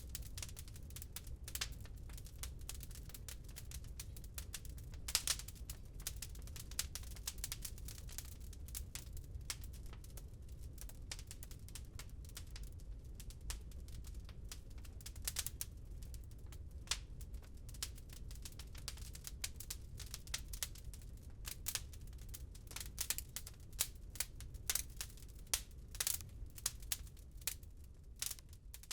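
Wood fire crackling in a fireplace: irregular sharp pops and snaps, thicker near the end, over a low steady rumble.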